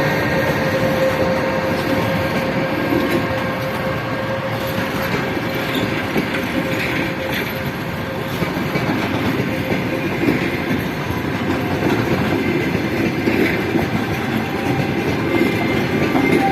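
Passenger coaches of a departing express train rolling past, with steady wheel-and-rail noise and wheels clicking over the rail joints. A steady tone runs under it for the first half and then fades out.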